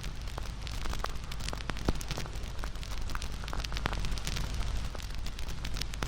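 Wood campfire crackling, with irregular sharp pops and snaps over a steady low rush of burning. The loudest pop comes a little under two seconds in.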